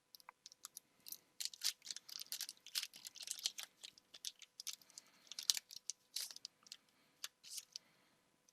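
Pokémon trading cards and booster-pack foil being handled close to the microphone: a dense run of crisp crinkles and clicks, busiest through the middle and thinning out near the end.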